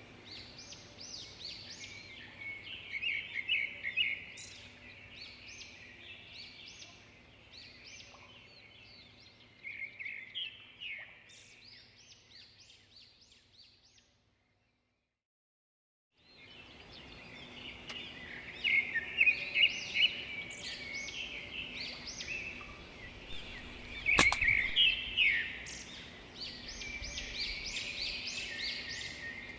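A flock of small birds chirping and chattering continuously. The sound cuts out completely for about two seconds around the middle. A single sharp snap comes about two-thirds of the way through.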